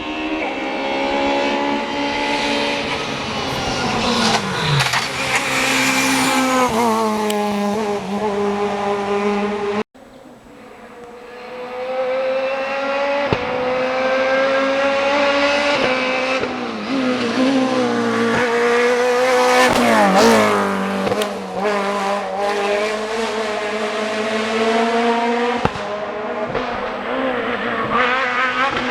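Rally car engines at full race pace on a special stage, revving up and dropping through gear changes and braking. The sound breaks off suddenly about ten seconds in, and another car's engine fades in and works up and down through its revs.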